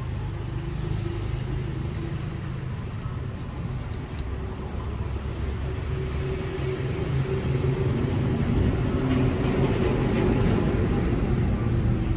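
A steady low rumble with a faint hum above it, growing a little louder over the second half, with a few faint clicks.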